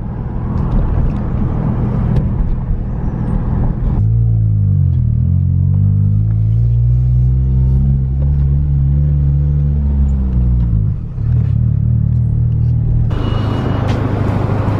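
2005 Acura RSX's four-cylinder engine and exhaust running while the car is driven, over tyre and road noise. About four seconds in, a strong engine note comes up, dips, then slowly rises and falls before fading back into road noise about eleven seconds in.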